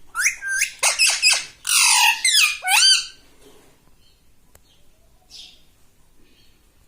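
Pet talking parrot squawking: a quick run of loud, shrill calls that sweep up and down in pitch for about three seconds, then stop.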